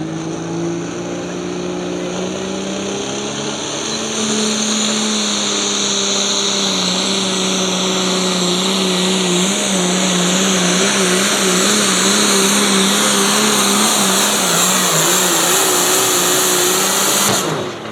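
Pulling vehicle's engine under full load during a pull. Its pitch climbs over the first few seconds, then holds steady with a wavering wobble as it drags the sled, getting louder about four seconds in, and it cuts off abruptly near the end.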